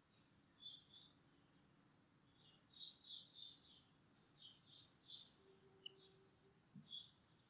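Near silence, with faint birds chirping: several quick runs of short, high chirps with light background hiss between them.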